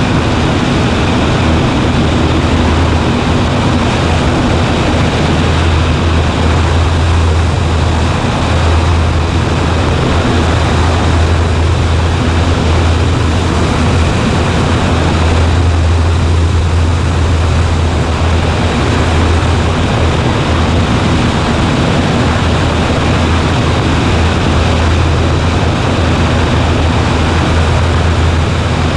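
Cessna 140A's piston engine and propeller running steadily: a constant loud drone with a low hum that holds the same level throughout.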